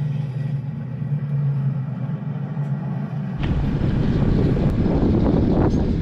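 A steady low hum, then about three and a half seconds in a sudden switch to gusty wind buffeting the microphone, a loud irregular rumble.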